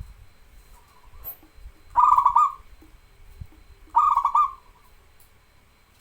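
Zebra dove (perkutut) cooing twice, about two seconds apart. Each song is a quick run of soft pulsed coos ending in a slightly longer note.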